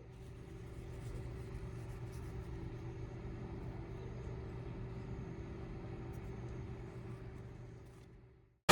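A car running with a steady low engine and road rumble, fading in at the start and out near the end.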